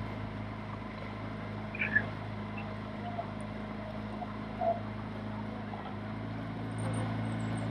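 Motorboat engine running steadily at a constant pitch, as from a launch following the rowing crews. A couple of short, brief sounds stand out faintly, about two seconds in and again near the middle.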